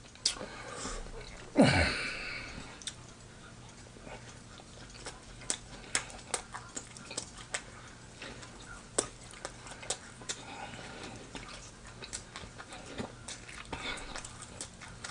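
Close-up chewing of a sandwich, with wet mouth clicks and smacks coming irregularly. About two seconds in there is one louder sound that falls in pitch.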